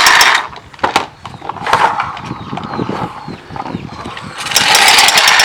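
Toy dump truck's friction-motor gears whirring as its wheels are spun. The whirr comes in two loud bursts, one at the start and one near the end, with quieter rattling between them.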